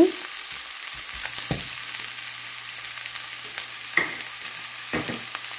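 Onions, green chillies and curry leaves sizzling in oil in a nonstick pan: the onion-and-chilli tempering for idli upma. A wooden spatula stirs the mix, with a few sharp scrapes and taps against the pan.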